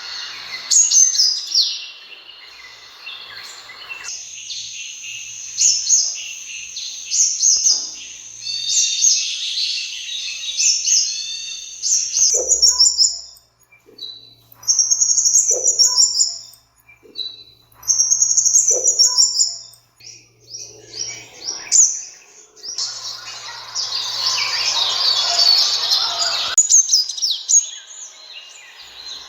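Sunbirds calling: rapid high-pitched chirps and twittering trills. In the middle they break into a few short repeated bursts spaced a few seconds apart, then a stretch of dense chatter.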